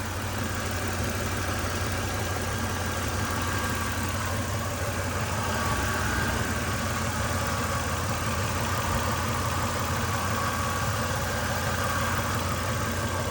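2003 Toyota Tacoma's engine idling steadily.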